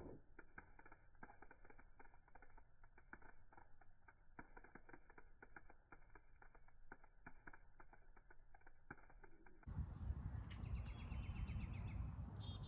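Faint, dense crackling and popping of the Coke and Mentos fizz and spray, slowed down and dull in tone. About ten seconds in it gives way to louder real-speed sound: a low rumble with a few short chirps.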